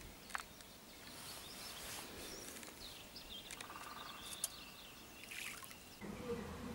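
Faint outdoor ambience with birds chirping and calling: short scattered chirps and one longer patterned call a little after the middle.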